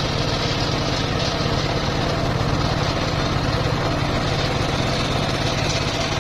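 Engine powering a homemade circular-saw sawmill, running steadily at an even pitch.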